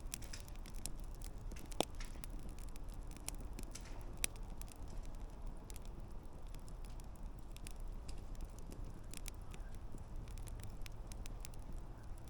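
Wood campfire crackling, with many small irregular pops and two sharper pops about two and four seconds in, over a low steady rumble.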